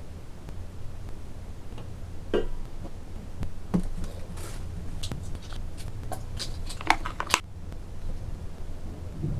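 Small plastic toy kitchen pieces being handled: scattered light clicks and taps, with a quicker run of sharper clicks from about five to seven seconds in, over a low steady hum.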